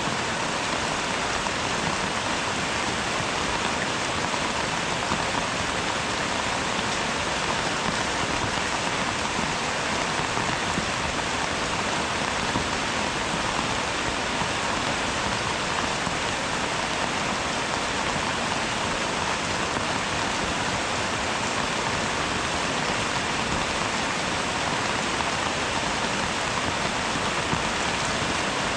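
Steady rain falling and pattering on surfaces, an even hiss that does not let up.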